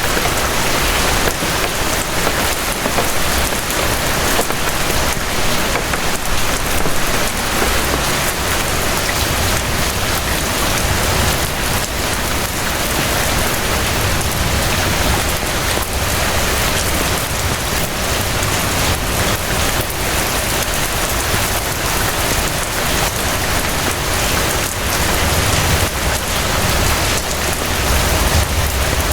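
Steady rain falling on surfaces, a dense even hiss of drops, with a low rumble underneath that swells a few times.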